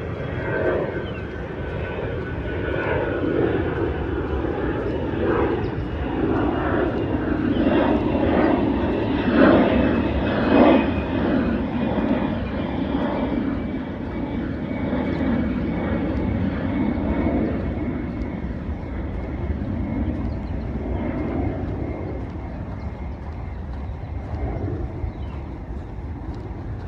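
Jet airliner flying low overhead. Its rumble builds to its loudest about ten seconds in and then slowly fades, with a thin whine that drops gradually in pitch as it passes.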